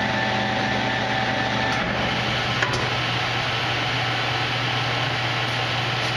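Victor engine lathe running with its spindle in low gear at 75 RPM: a steady motor hum with gear and drive noise. A faint whining tone in the drive drops out about two seconds in, and there is a light click a little later.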